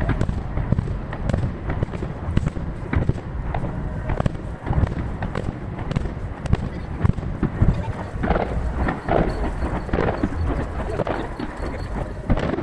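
Fireworks shells bursting one after another, with distant booms, echoes and crackling, sped up to three times normal speed so the bangs come thick and fast. The crackle gets denser in the second half.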